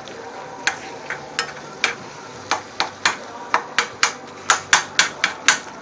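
A cooking utensil striking and scraping a cast iron skillet as ground beef is broken up and stirred while it browns. Sharp clacks, a few at first, then quickening to about four a second.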